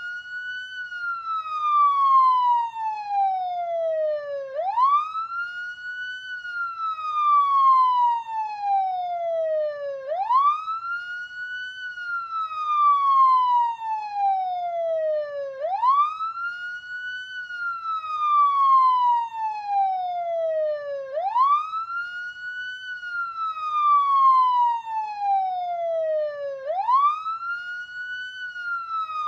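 Canadian police car siren on a wail: each cycle shoots up in pitch in about a second, then slides slowly back down over four to five seconds, repeating about every five and a half seconds.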